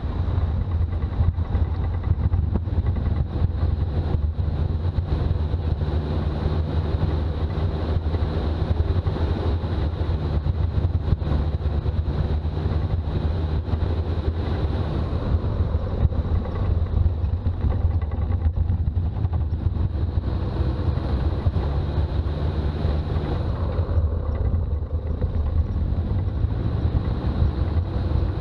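Toyota BJ40's diesel engine running steadily as the 4x4 drives along, with road noise; the low drone shifts slightly in pitch a few times with engine speed.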